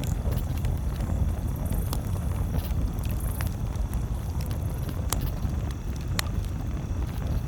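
Campfire crackling, with scattered small snaps and two sharper pops about five and six seconds in, over a steady low rumble.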